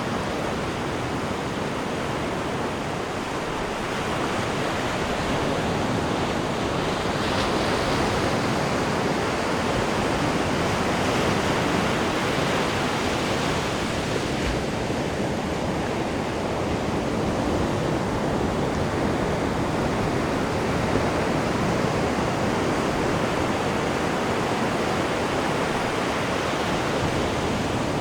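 Churning wake water rushing behind a cruise ship's stern: a steady, even rush that swells and eases slowly.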